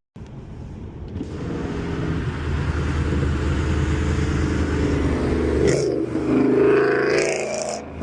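A road vehicle's engine running while driving, with a steady low hum and road noise. The engine note shifts and grows louder for a couple of seconds near the end.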